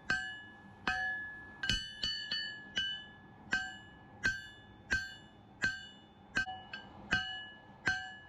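Hand hammer striking hot steel on an anvil, hand-forging a Damascus billet down: about fourteen blows at an uneven pace of a little under two a second, each one ringing out with a high metallic ring.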